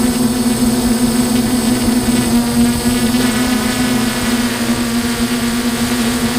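DJI F550 hexacopter's electric motors and propellers buzzing steadily, heard from on board, with a strong constant hum and a stack of higher tones.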